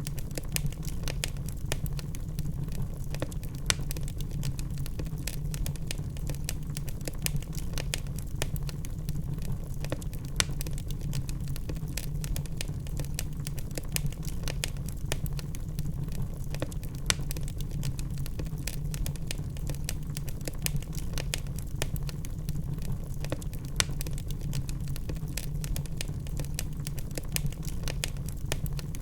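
Wood fire burning in a fireplace: a steady low rumble with frequent sharp crackles and pops from the burning logs.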